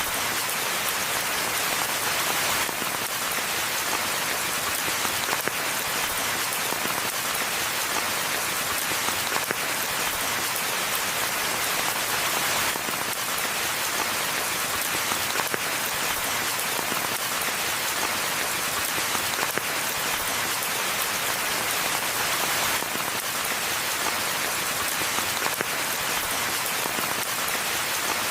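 Steady rain falling on forest foliage and ground, a dense even patter with no let-up.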